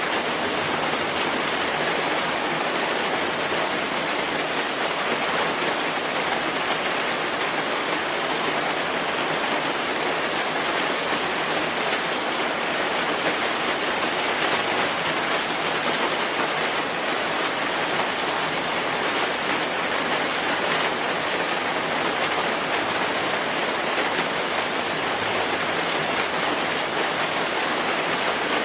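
Steady rain falling, an even hiss of drops with faint scattered ticks and no change in intensity.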